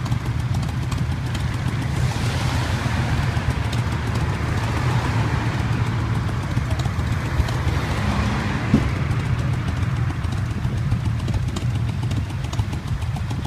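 Motorcycle engines running, with a steady rumble throughout and one vehicle growing louder and then fading between about two and eight seconds in.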